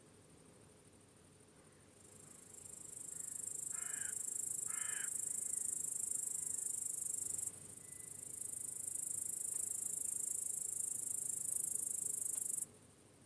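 A cricket chorus makes a dense, high-pitched chirping trill. It fades in about two seconds in, breaks off briefly about halfway, and cuts off suddenly near the end. A bird gives two short calls about four and five seconds in.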